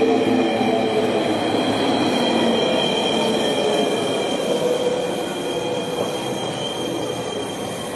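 A train running, with a steady high squeal over a rumbling noise, easing off slightly in the last few seconds.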